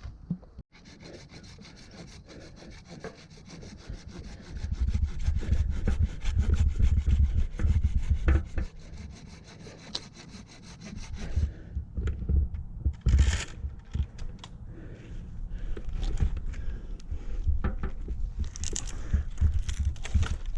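Handsaw cutting through wood with rapid back-and-forth strokes. About halfway through the sawing stops, giving way to scattered knocks and rustling.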